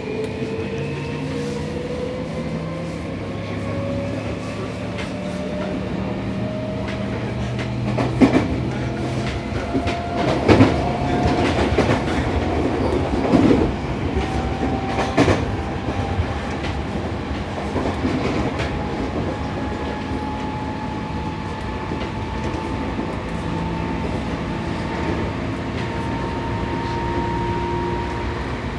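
Seibu 6000 series train's Toshiba IGBT inverter and traction motors whining, heard from inside the motor car, the tone rising steadily in pitch as the train accelerates. Wheel and track noise run underneath, with several sharp rail-joint clacks in the middle stretch.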